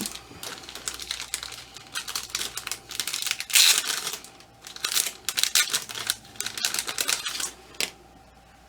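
Rustling and light clicking from handling a ball-jointed doll and its clothing, in quick irregular bursts that stop about a second before the end.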